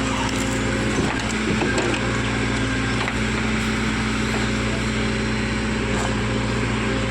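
Diesel engine of a Bull backhoe loader running steadily while working, with a few faint knocks over it.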